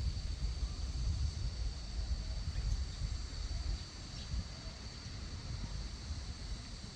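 Outdoor ambience: wind rumbling on the microphone, under a steady high-pitched insect drone.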